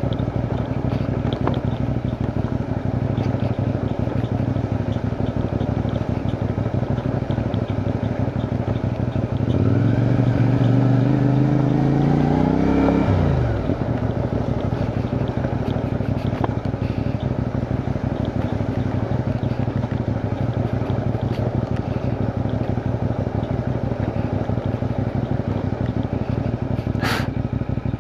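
CFMoto 450NK parallel-twin engine running steadily at low road speed, picking up for a few seconds about ten seconds in with its pitch climbing before it drops back.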